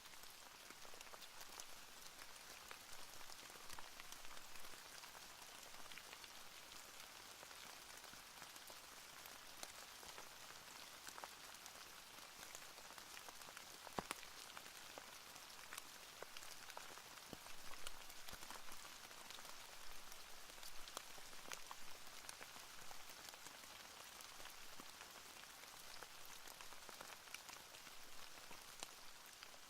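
Faint, steady rain ambience: an even hiss of falling rain dotted with many small drop ticks, one a little louder about a third of the way through.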